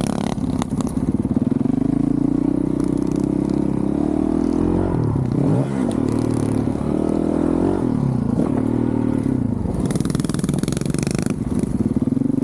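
2023 Honda CRF450RL's 450 cc single-cylinder four-stroke engine, running through a full titanium Yoshimura RS-4 exhaust while being ridden. The engine note holds steady, then climbs and drops several times in the middle as the throttle is opened and closed, then settles back to a steady pull near the end.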